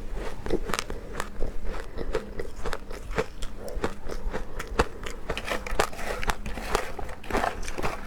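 Close-miked biting and chewing of powder-coated ice, a steady run of crisp crunches several times a second.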